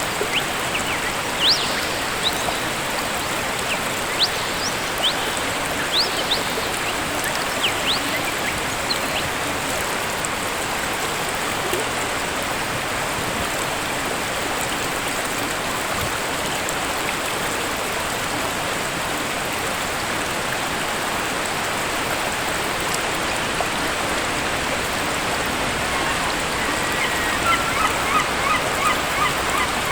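Waterfall water running steadily. Short, high bird chirps come through in the first several seconds, and a quick series of repeated bird calls comes in near the end.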